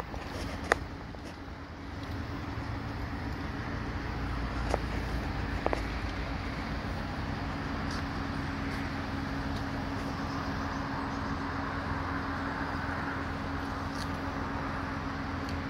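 A train approaching a closed level crossing: a steady rumble with a low hum that builds from about two seconds in and swells further in the second half, with a few faint clicks.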